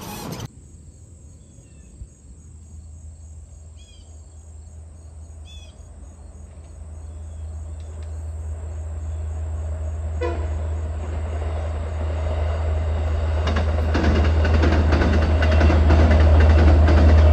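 Long Island Rail Road diesel-hauled bi-level passenger train approaching and crossing a steel girder bridge: a deep rumble that grows steadily louder, with wheel clatter on the rails joining in over the last few seconds.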